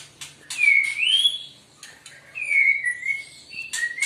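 A caged songbird singing loud whistled phrases that slide up and down, repeating about every second and a half, with short sharp clicks between the phrases.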